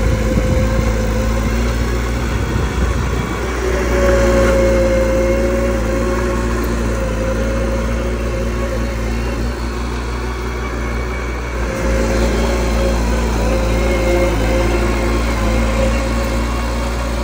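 A small bulldozer's diesel engine running steadily, its note swelling briefly about four seconds in.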